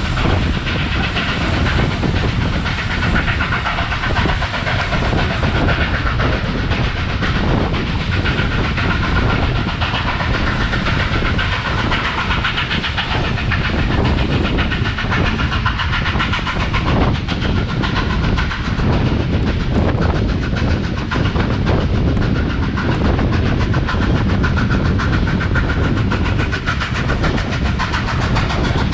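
Steam-hauled heritage train, locomotive 3801, running steadily, with the rumble and clickety-clack of its carriage wheels on the rails.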